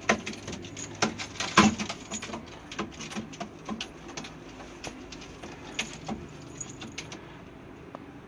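Pigeons moving about in their loft: a run of sharp taps and scuffles, loudest in the first two seconds and dying away about seven seconds in.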